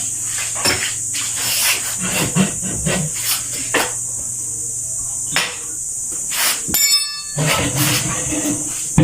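Scattered clicks and knocks of hand tools working on a tubeless tyre during a patch repair, over a steady high hiss; a low hum stops about five seconds in.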